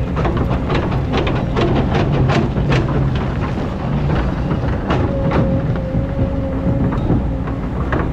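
Excavator's diesel engine running steadily while the bucket scrapes and crunches through a hard, compacted layer of old sand, with many sharp scraping clicks and knocks, densest in the first few seconds.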